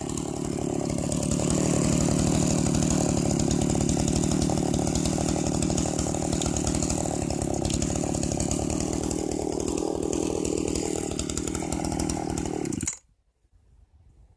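Jonsered CS 2159W two-stroke chainsaw engine speeding up over the first second or two, then running steadily at high revs for about ten seconds before cutting off suddenly near the end.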